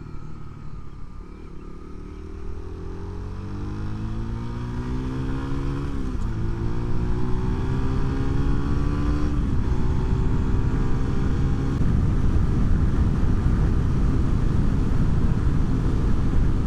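A road vehicle's engine accelerating through the gears: its pitch rises, drops with an upshift about six seconds in and another about three seconds later, then holds steady. Wind and road rush grow louder as the speed builds.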